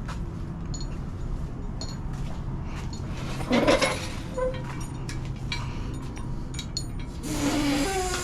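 Scattered light metallic clinks and taps over a steady low hum, with a louder brief rustle or clatter about three and a half seconds in.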